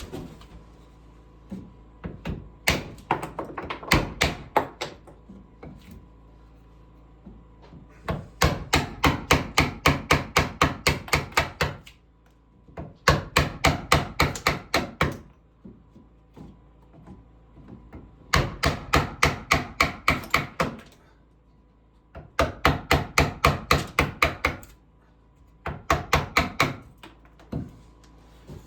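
Hammer striking wood in quick runs of about four or five blows a second, with pauses of a second or so between runs.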